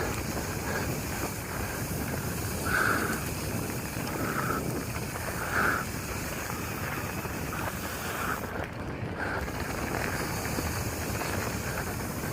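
Steady wind rumbling on the microphone, with short mid-pitched squeaks every second or two.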